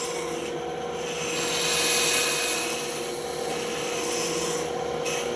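Band saw running with a steady hum while its blade cuts a curve, the hiss of the cut swelling about a second and a half in and easing off later.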